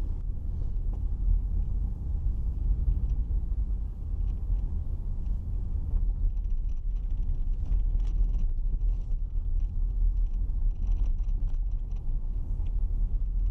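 Car running on the road, heard from inside the cabin as a steady low rumble of engine and road noise.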